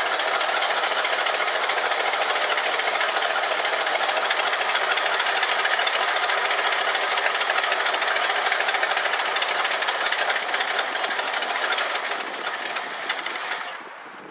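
1965 Ford Galaxie 500 engine running steadily, then dying away about two seconds before the end. It is running on fuel poured into the carburetor and stalls for lack of fuel, which the owner puts down to a fuel pump not delivering enough.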